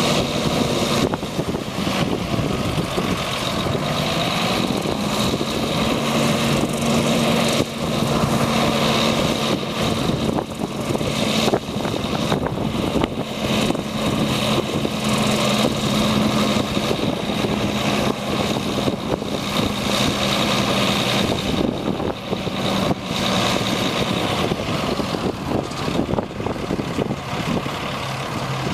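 The 1997 International 2674 crane truck's diesel engine running. About five seconds in it speeds up and holds there with a high steady whine over it, then drops back near the end. Scattered knocks and clatter sound throughout.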